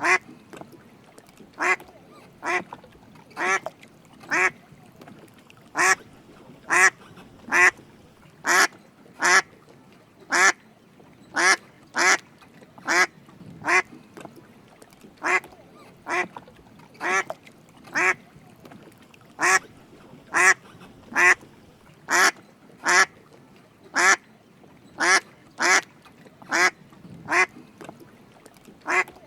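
Drake mallard quacking: short calls repeated about once a second, often in quick pairs.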